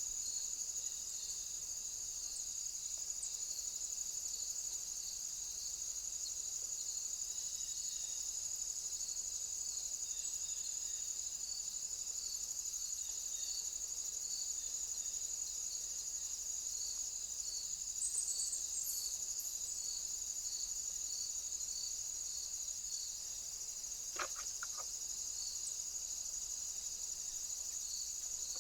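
Insects trilling in a steady, high, unbroken chorus, with a second call pulsing regularly just below it. A couple of faint short clicks come a few seconds before the end.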